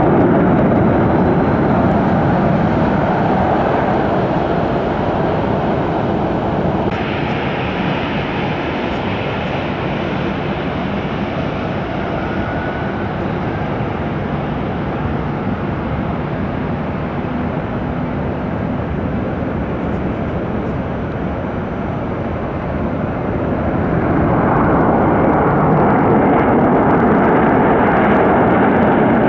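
Boeing 737 jet airliners landing, their engines making a steady noise. About seven seconds in there is an abrupt cut from a Boeing 737-900 landing to a Boeing 737-800 coming in to land, whose engine noise swells near the end.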